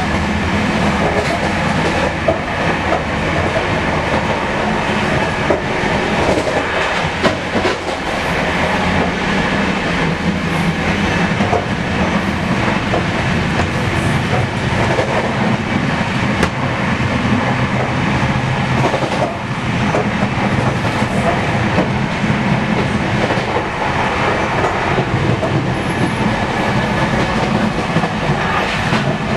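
Inside a moving Indian Railways Rajdhani Express coach: the steady rumble of the running train, with wheels clacking over rail joints and occasional knocks.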